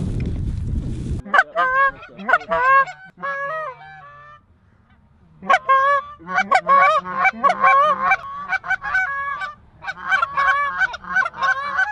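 Geese honking, many short overlapping honks in quick succession, with a brief pause in the middle. Wind rumbles on the microphone until it cuts off sharply about a second in.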